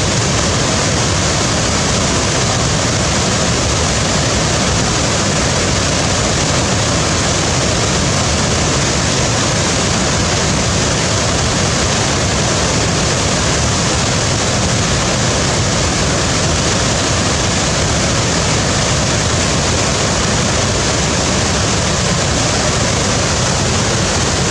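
Waterfall: water falling and splashing in a steady, loud, unbroken rush.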